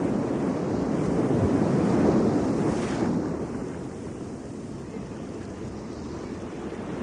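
Ocean surf on a beach: a wave builds and breaks about three seconds in, then washes out to a lower steady rush.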